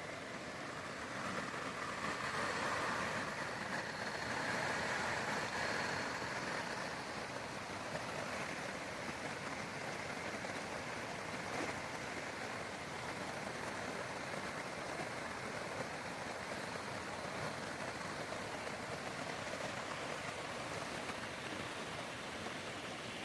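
Steady rushing of flowing creek water, a little louder a few seconds in.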